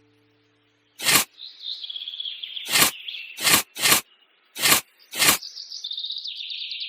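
Near silence for about a second, then birds chirping and trilling steadily. Six short, loud swishes break in, irregularly spaced.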